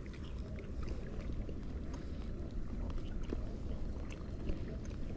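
Steady low outdoor rumble with faint scattered ticks and clicks above it.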